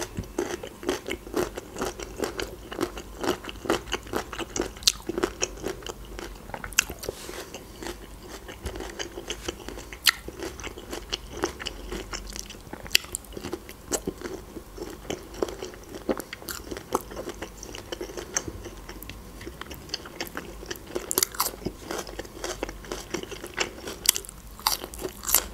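Close-miked eating: a person chewing and biting into pickled cucumbers, a thin smoked hunter's sausage and pepper slices, with frequent crisp crunches and wet mouth sounds.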